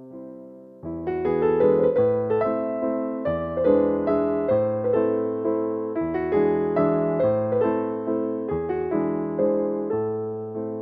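Background piano music: a gentle melody with struck notes that each fade away, coming in fuller about a second in.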